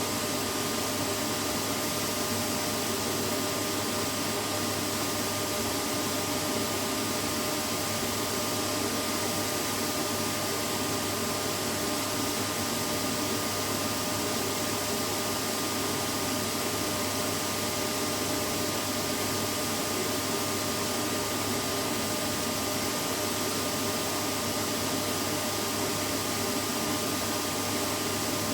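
Vacuum cleaner running steadily: an unchanging whooshing noise with a faint motor whine, played continuously as white noise to help a baby fall asleep.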